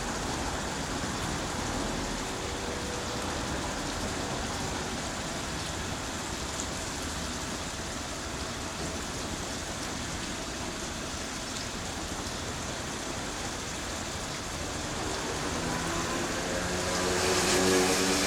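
Steady hiss of rain and wet-road traffic. A vehicle's engine hum rises and grows louder about sixteen seconds in as it comes closer.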